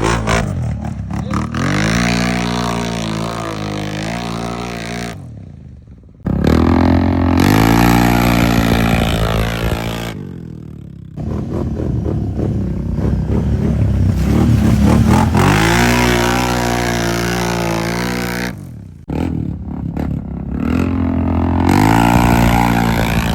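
Engines of off-road mud-racing machines held wide open, revving up and down in pitch as they push through deep, thick mud. The sound comes in four separate runs with abrupt breaks between them.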